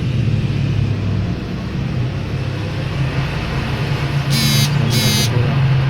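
Metal lathe running with a steady low hum. A little over four seconds in come two brief high-pitched squeals, about half a second apart.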